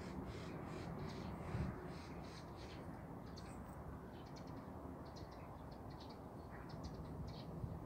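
Birds calling: a run of short, evenly spaced calls, about three a second, for the first few seconds, then scattered short high chirps, over a steady low background rumble.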